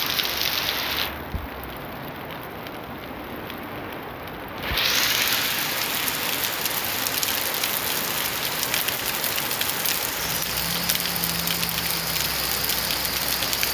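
Heavy rain pouring onto a street and parked cars, a steady dense hiss of rain and splashing. About a second in it turns quieter and duller, then comes back louder and brighter about five seconds in.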